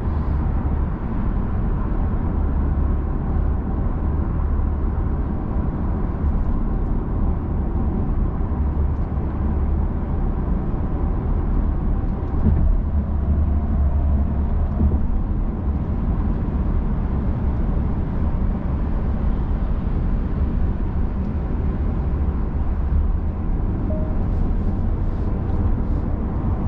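Cabin noise of a Genesis G80 sedan cruising on the expressway: a steady low rumble of road and tyre noise with a soft hiss above it, unchanging throughout.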